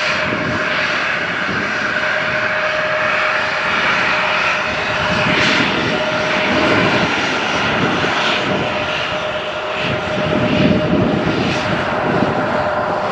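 Airliner engines running, a loud steady rush of noise with a single steady tone held through most of it.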